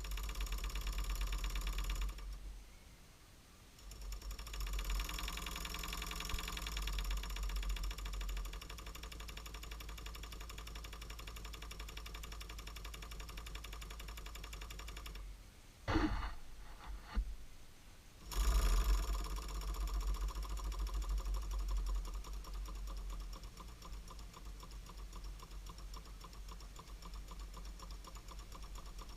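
Small 5.4 cc model steam engine running with a fast, even mechanical beat. It stops briefly about two seconds in and starts again. Around sixteen seconds in it stops once more, a few loud knocks are heard, and then it runs on.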